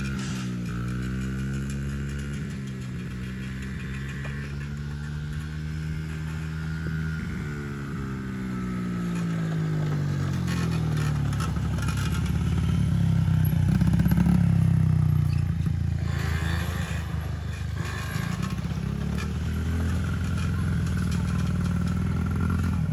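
A small vehicle engine running, its pitch falling, rising and falling again over the first ten seconds as the revs change. It then grows louder and rougher, loudest about fourteen seconds in, and runs on steadily.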